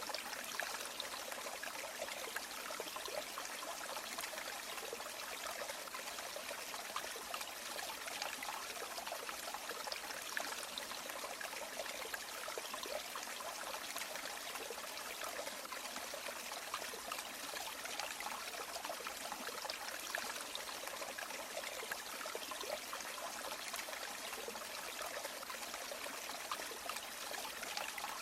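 Steady running water of a stream or river, a constant trickling and splashing flow with no change.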